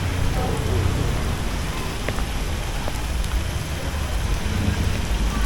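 Steady rain falling, with a low rumble underneath and a few sharp drip-like ticks about two to three seconds in.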